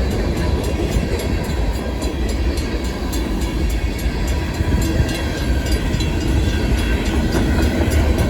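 Freight cars of a long freight train rolling past: a steady rumble with faint, scattered wheel clicks, with wind buffeting the microphone.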